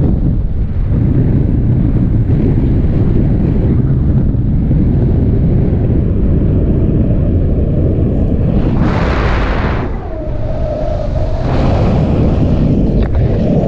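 Wind buffeting the microphone in paragliding flight: a heavy, steady low rumble that swells into a louder, hissier gust about nine seconds in and again near the end.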